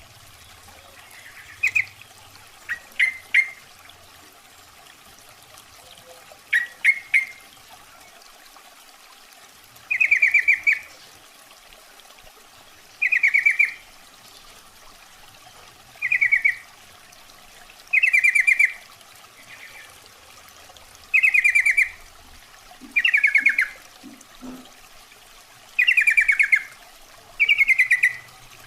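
Female sooty-headed bulbul (trucukan) calling with short, bubbling calls repeated every two to three seconds, a call used to lure males. A few quicker clipped notes come in the first seven seconds, all over a steady faint hiss.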